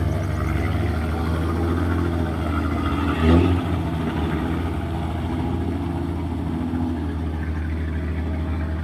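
Heavy diesel earthmoving machinery engine running steadily under work, with a brief louder surge about three seconds in.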